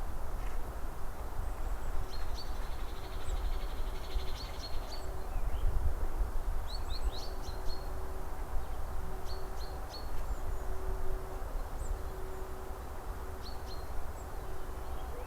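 Small birds chirping, with short high notes scattered in clusters and a rapid trill about two to five seconds in. A steady low rumble runs underneath.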